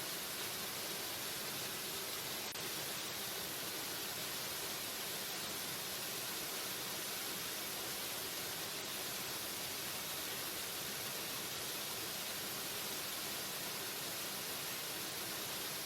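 Waterfall: falling water rushing in a steady, unbroken hiss, brightest in the high end.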